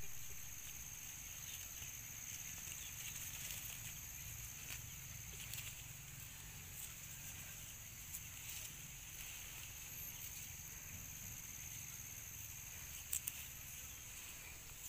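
Quiet outdoor ambience: a steady high-pitched hum with faint low rumble, a few soft scattered ticks, and two sharp clicks close together about 13 seconds in.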